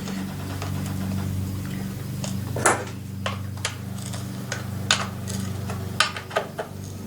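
Scattered sharp metallic clicks and knocks from hand-work on a chainsaw's bar and chain as the bar nuts are snugged up, over a steady low hum.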